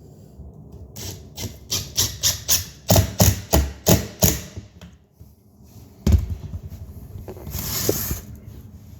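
Screw gun driving screws through drywall into a wood backer board. First comes a quick run of about ten short, sharp bursts, then after a brief pause a longer, steady run of a couple of seconds.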